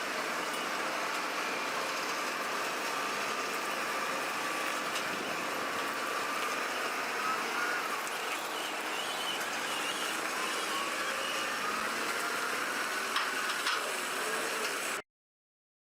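A heavy vehicle's engine running steadily, with a thin whine that wavers slightly in pitch and a few faint ticks; it cuts off suddenly near the end.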